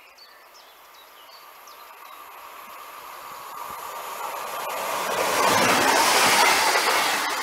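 SNCF Z 23500 double-deck electric multiple unit approaching and passing close by: its running and wheel-on-rail noise grows steadily louder and is loudest about six seconds in as it goes by, then begins to fade.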